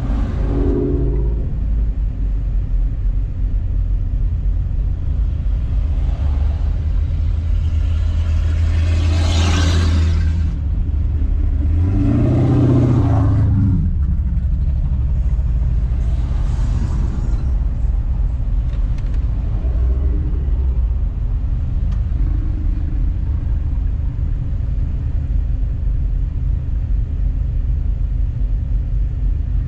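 Car engine and road rumble, heard steadily while driving slowly. About nine seconds in, a hissing swell passes. About twelve seconds in, an engine note rises and falls briefly.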